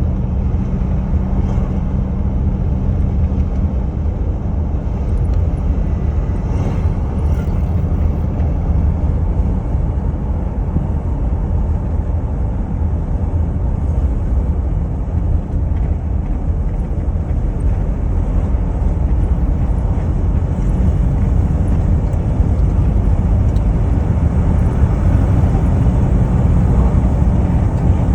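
Steady low rumble of a moving vehicle, its engine and travel noise running evenly.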